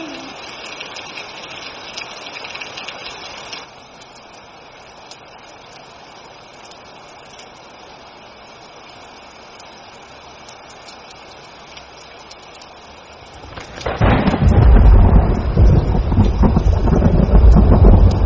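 Steady rain hiss that drops to a softer level about four seconds in, then a sudden loud crack of thunder near the end that rolls into a heavy, deep rumble.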